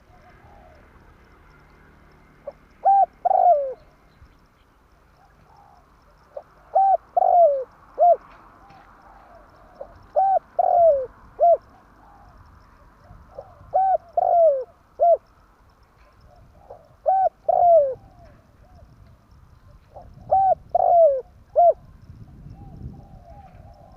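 Spotted dove cooing: a short phrase of three to five notes, the later ones sliding down in pitch, repeated six times about every three and a half seconds.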